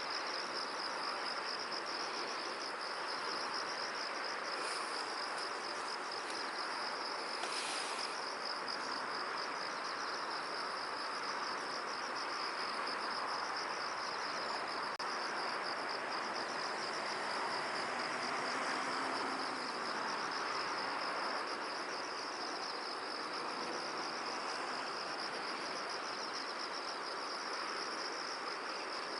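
Insects trilling steadily in a continuous high chorus over an even wash of wind through the field.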